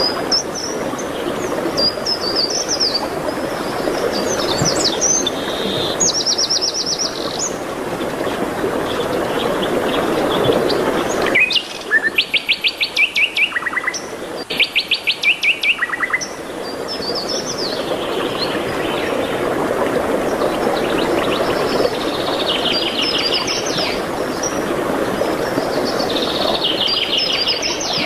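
Several birds singing and chirping over a steady rushing background noise. About halfway through, the background drops out briefly while a bird sings two loud, rapid trills of about ten notes a second.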